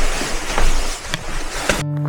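Wind rushing over the microphone, with a few faint clicks. Near the end it cuts off abruptly and background music with held notes begins.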